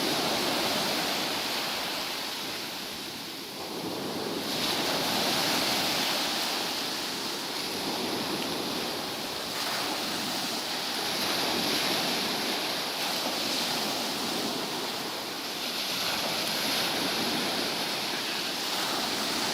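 Sea surf: waves washing onto the beach, the rush swelling and easing every five or six seconds.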